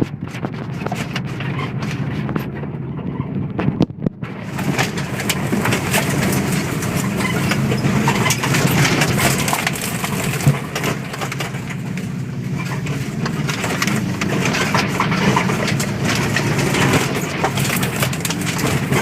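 Rally car engine running hard with a steady drone, overlaid with constant rattling and clicking. The sound thins out for about a second and a half near the start, then comes back fully.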